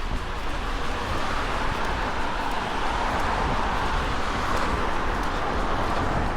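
A car passing by, its tyre and road noise swelling up and fading away, over a low rumble of wind on the microphone.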